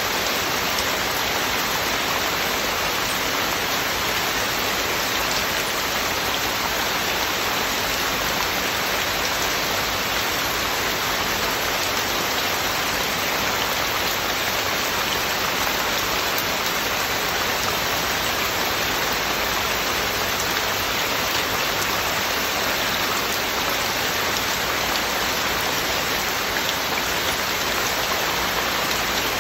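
Heavy rain falling steadily, an even hiss of drops on surfaces, with no thunder.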